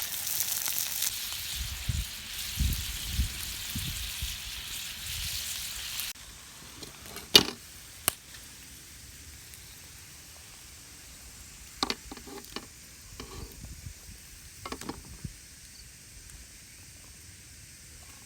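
Food sizzling in a frying pan, with a few low knocks, until it cuts off abruptly about six seconds in. After that it is quieter, with a handful of sharp clicks and taps.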